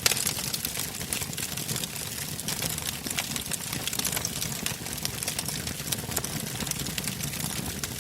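Wood fire burning in a fireplace, crackling with frequent sharp pops and snaps over a low steady rumble of the flames.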